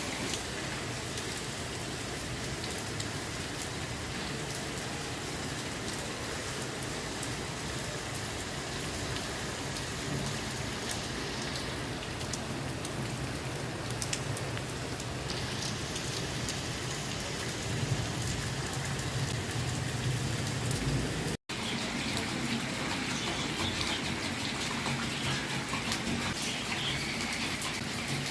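Heavy rain falling steadily, an even hiss of rain hitting surfaces, with a momentary break about two-thirds of the way in.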